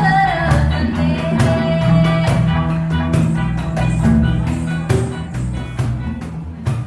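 Live band playing a song with a steady beat and a woman singing a long held note, the music growing quieter and ending on a final hit near the end.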